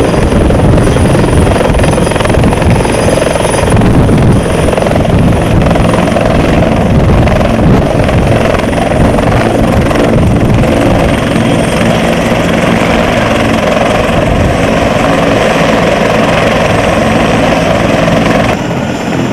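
Helicopter running, a loud steady rotor and turbine drone with a constant hum underneath; it eases slightly near the end.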